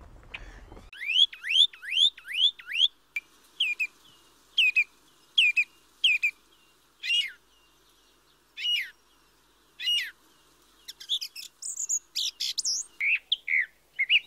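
Small birds chirping: a quick run of five rising notes, then single chirps about a second apart, and a busier cluster of higher calls near the end.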